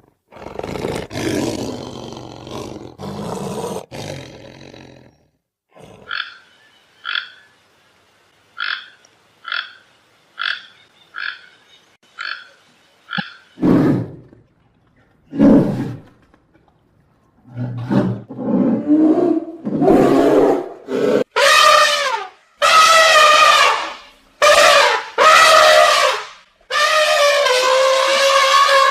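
A succession of different animal calls: a rough roar during the first few seconds, then a run of short, evenly spaced high calls, then two low calls, and a string of long pitched calls toward the end.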